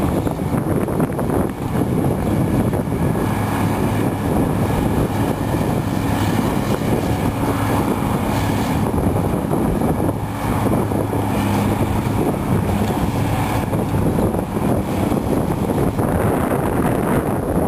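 Cat 345B hydraulic excavator's diesel engine running steadily under working load, its pitch shifting now and then as the machine works, with wind rumbling on the microphone.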